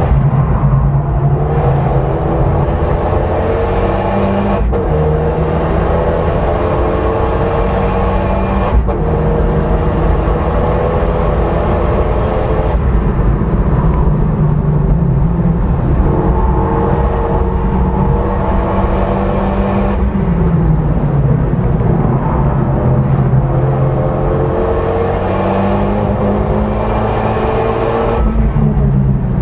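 Renault Mégane RS Mk3's turbocharged four-cylinder engine, heard from inside the cabin under hard acceleration. Its pitch climbs through each gear and drops at several quick upshifts, over steady road and tyre rumble.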